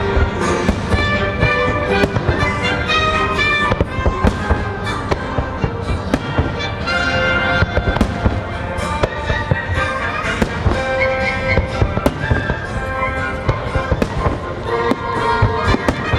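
Fireworks bursting with frequent irregular bangs over a music soundtrack with sustained notes playing throughout.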